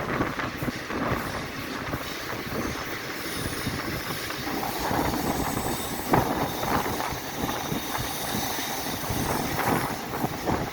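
Kalinga Utkal Express running on the track: steady rumble and rush of the moving train, with the wheels knocking over rail joints and a faint high wheel squeal.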